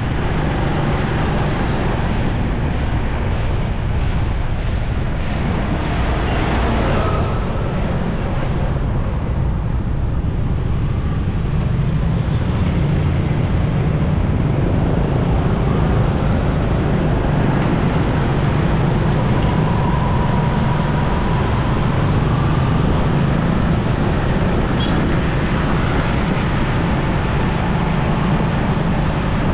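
Motorcycle under way in traffic: steady engine, tyre and wind noise from the moving bike, with the hum of surrounding road traffic.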